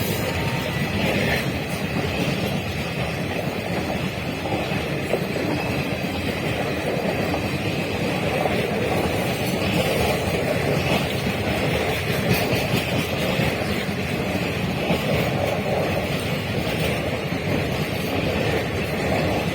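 Train running past: a steady, unbroken noise of wheels on the rails.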